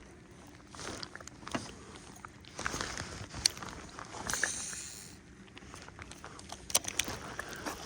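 Scattered knocks, clicks and brief swishes of fishing tackle being handled and cast in a small boat.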